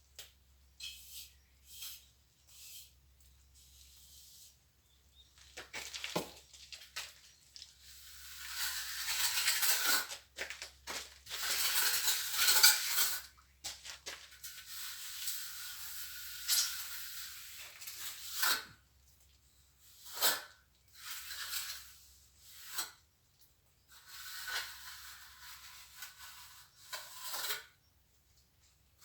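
Irregular scraping and slapping strokes of a steel trowel working wet cement mortar, plastering where a door frame was removed; the strokes come in bursts, thickest about a third of the way in.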